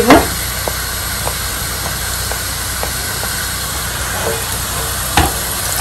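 Chopped onions frying in hot oil in a pan: a steady sizzling hiss with a few faint ticks, and a short knock about five seconds in.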